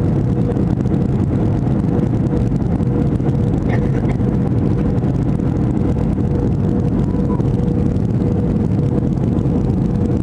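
Airliner cabin noise on the approach to landing: the steady rush of jet engines and airflow, with a constant hum running through it.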